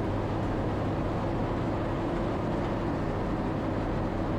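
Four-wheel-drive vehicle driving on a gravel track, its engine running with a steady, even drone.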